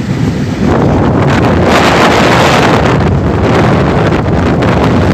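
Wind buffeting the microphone with the rumble of a moving passenger train, swelling sharply to a loud steady roar about a second in.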